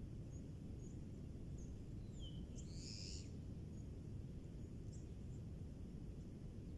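Birds calling outdoors: scattered short, high chirps and one louder call with a falling note about two and a half seconds in, over a steady low rumble of background noise.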